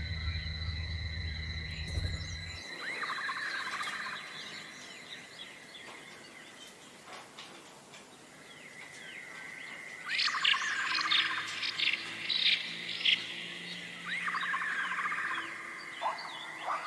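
Songbirds singing: a trilled phrase repeated three times, with bursts of quick high chirps in between, over a steady high whine. A low hum cuts off about two and a half seconds in.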